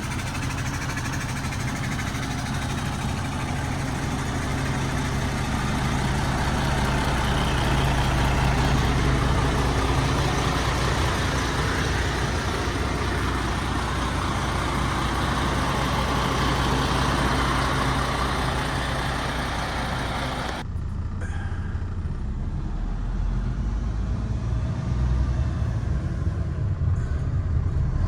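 MAN TGX 26.480 tractor unit's six-cylinder diesel engine idling steadily. About three-quarters of the way through, the hiss and higher sounds cut away abruptly, leaving only the low engine rumble.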